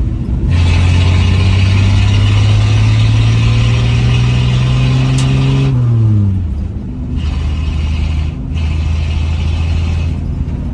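1967 Dodge D100's 225 slant-six engine pulling hard under acceleration, its note climbing steadily for about five seconds. It then drops off as the throttle lifts for a shift of the three-speed manual, and pulls again in the next gear with a brief break about two seconds later.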